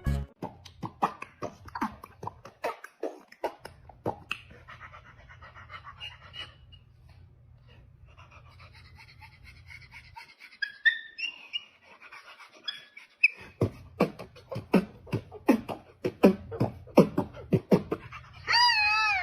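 A parrot making a long run of clicking and popping sounds, with a few short whistles partway through and a loud warbling call near the end.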